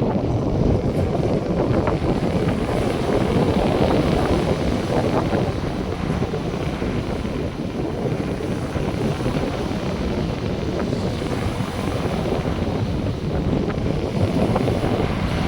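North Sea surf washing onto the beach, with wind buffeting the microphone: a steady low rushing rumble.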